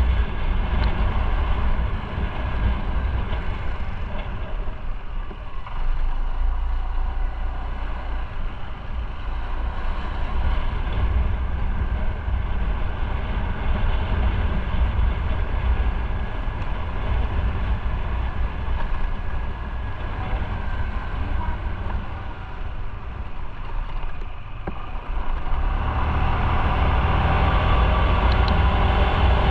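Motorcycle engine running under way with wind rush, heard from on the bike; it eases off a little past the two-thirds mark and grows louder again near the end.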